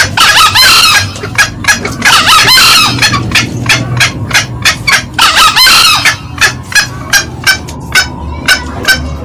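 Green junglefowl calling: a run of short cackling clucks, about three a second, broken by three longer, higher calls near the start, about two seconds in and about five seconds in.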